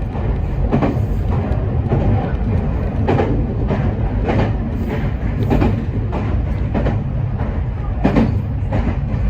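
Meitetsu 5000 series electric train running along the track: a steady low rumble with sharp wheel clacks over the rails every second or two.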